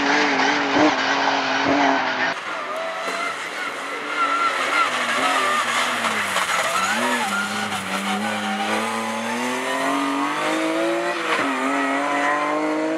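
BMW M3 rally car's engine under hard driving, its pitch rising and falling through the gears. It drops and wavers about halfway through, then climbs steadily under acceleration, over a layer of tyre and road noise.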